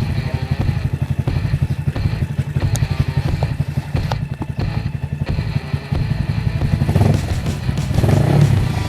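Yamaha Vixion single-cylinder four-stroke engine, bored up to 200cc, idling through a Norifumi Monster Carbon aftermarket muffler with a steady, fast exhaust pulse. It is revved in short throttle blips near the end.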